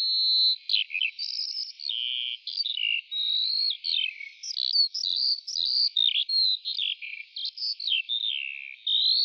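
A songbird singing a continuous, varied song of quick chirps and sliding whistled notes.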